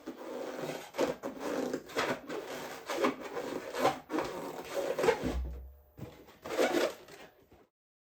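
Latex balloons rubbing against each other and the stuffer as they are pushed in by hand, in a run of uneven strokes, with a short low thump a little after five seconds in. The sound cuts off abruptly near the end.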